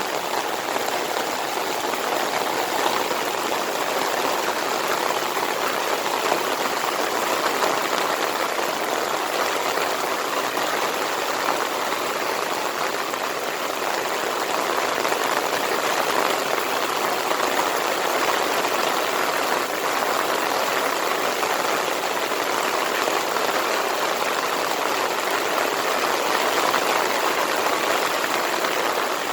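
Heavy monsoon rain pouring steadily, an even, unbroken wash of noise.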